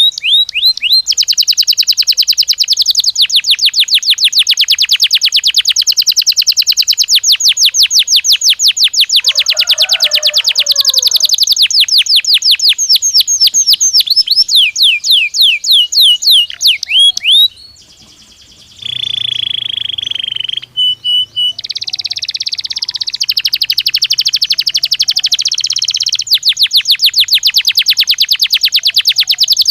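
Domestic canary singing: long, fast trills of rapidly repeated down-sweeping notes. A little past halfway the song breaks briefly, then goes into a held whistled note, a buzzy stretch, and fast trills again.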